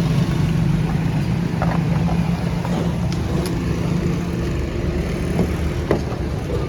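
Toyota Corolla XLi car engine idling steadily, with a few light clicks and knocks.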